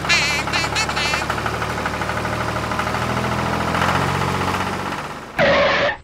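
Tractor engine running steadily with a low knocking beat, heard over a toy tractor driving across sand. Warbling high sounds come in the first second, and a short loud burst comes just before the end, where the sound cuts off.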